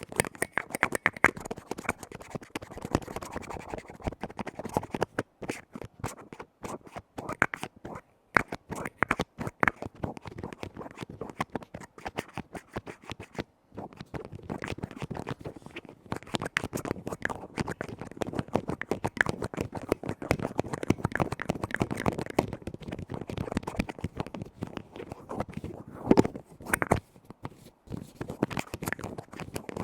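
Close-up ASMR tapping and scratching on lids: rapid, dense taps with scraping in between, pausing briefly twice.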